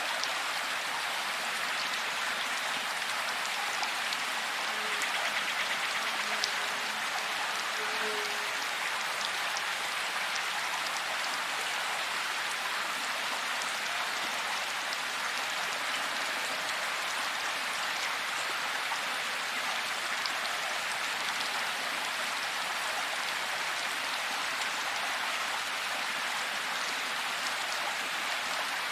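Steady rain falling: an even hiss with scattered taps of single drops.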